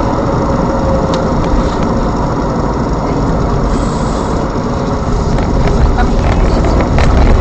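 Steady engine and road noise of a car driving, a continuous deep rumble with a few faint clicks.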